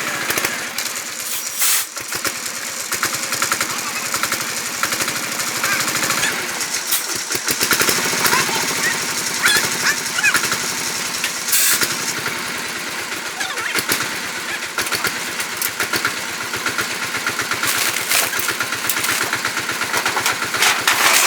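A motor-driven machine or power tool running with a rapid, even rattle, with a few sharper knocks over it.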